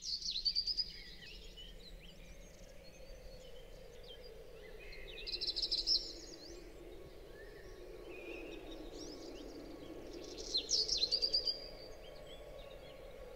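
Birdsong: three bursts of rapid, high chirping trills about five seconds apart, with softer scattered chirps between, over a faint steady background noise.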